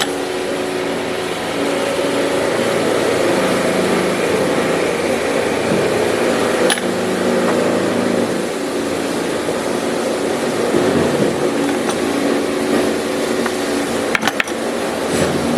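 A small electric motor running steadily, its pitch stepping up and down, with a few sharp clicks.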